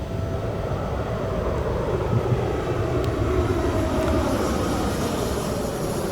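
Boeing 747 airliner passing low overhead on its landing approach: steady jet engine noise with a whine that slowly falls in pitch.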